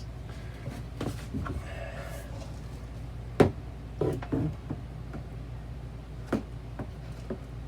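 Scattered clicks and knocks of hands and a screwdriver working on the plastic parts of an RV toilet while a screw is put back in, the sharpest knock about three and a half seconds in. A steady low hum runs underneath.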